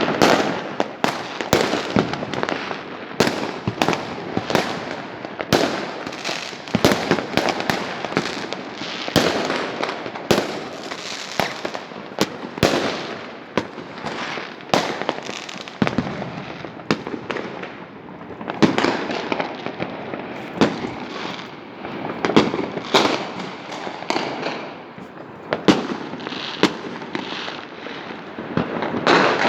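Fireworks going off: a dense, irregular run of bangs and crackles, several per second at times, with no pause.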